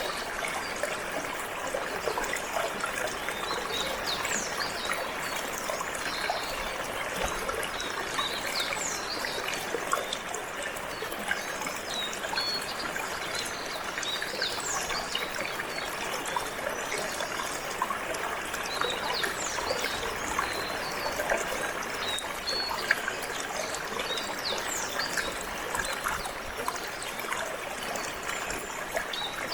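Water flowing and trickling steadily, like a small stream, with short high chirps scattered through it.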